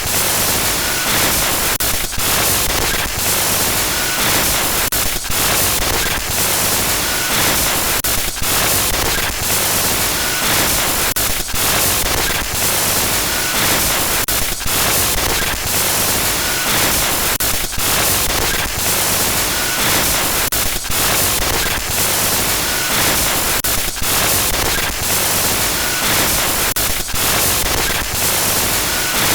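Digital glitch noise effect: loud, harsh static hiss that stutters with many brief dropouts and crackles every fraction of a second.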